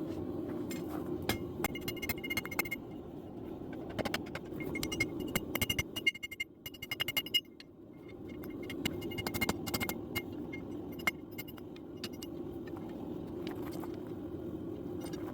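Light metallic clinks and scrapes, scattered and irregular, over a steady low hum, as a steel bar is worked at the forge.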